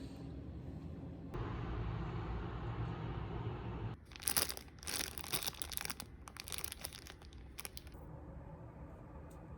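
A steady low background hum, then, about four seconds in, some four seconds of irregular crinkling and rustling, like plastic packaging being handled or torn open.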